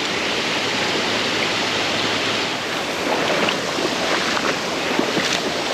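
Creek water rushing steadily over rocks, with a few faint clicks about three to five seconds in.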